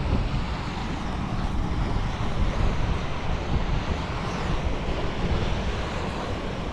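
Wind buffeting the microphone, a low uneven rumble, over a steady rushing noise from the burn and waterfalls.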